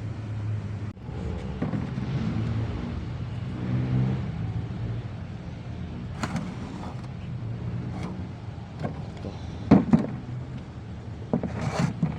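A vehicle engine running steadily, with several sharp knocks and clinks over it; the loudest are two knocks close together about ten seconds in.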